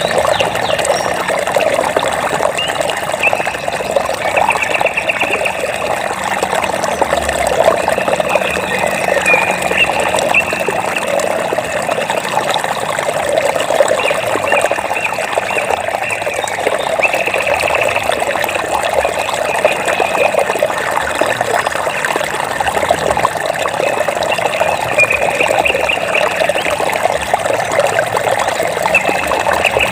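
Water trickling and babbling steadily. Short, rapid, high trills from a small animal come and go every few seconds over it.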